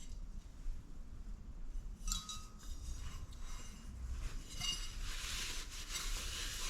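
Faint metallic clinks of loose steel bolts and small engine parts being picked through and handled, a couple of them ringing briefly, with soft rummaging in between.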